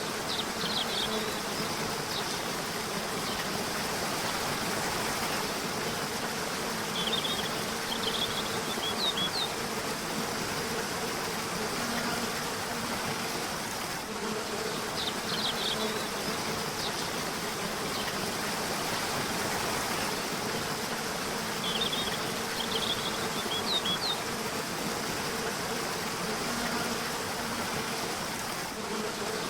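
Steady rush of flowing river water with a low buzzing hum, and short bursts of high bird chirps returning about every seven seconds.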